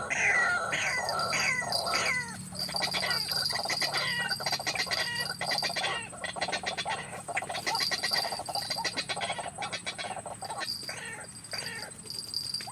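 White-breasted waterhen calling: a run of repeated falling notes, about two or three a second, breaking into fast rattling chatter, with a steady high-pitched whine underneath.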